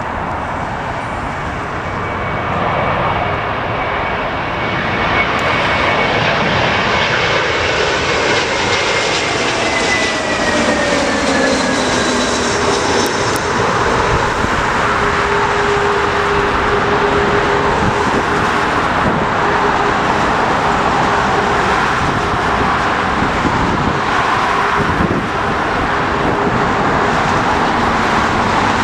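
Jet airliner on landing approach passing low overhead: its engine whine glides down in pitch about ten seconds in as it goes by, then the loud, steady engine noise carries on.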